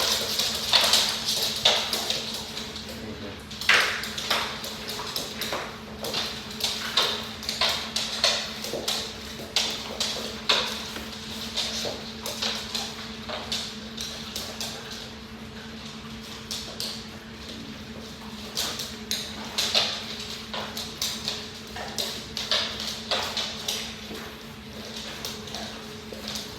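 Dogs moving about on a hard floor after scattered food: many irregular clicks and taps of claws and kibble, over a steady low hum.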